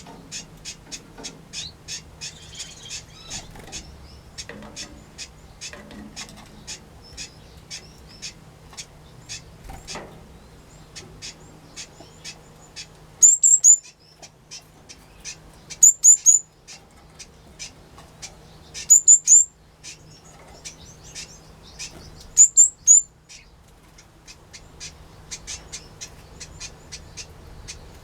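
Small aviary birds, finches, waxbills and parrots, calling: a steady run of short high chips, with a louder, higher call coming four times about every three seconds in the second half.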